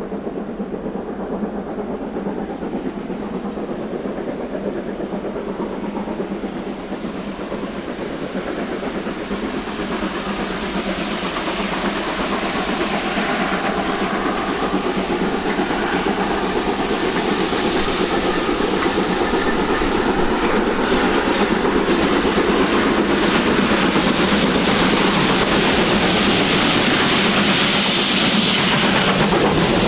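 Train approaching, its running noise and wheel-on-rail clatter growing steadily louder.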